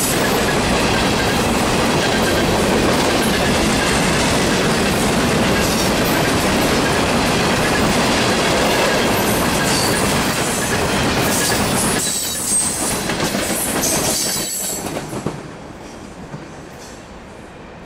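Norfolk Southern freight train's hopper cars rolling past at speed, wheels clicking over rail joints, with brief high wheel squeals about ten to thirteen seconds in. The end of the train passes about fifteen seconds in and the noise drops away sharply to a faint rumble.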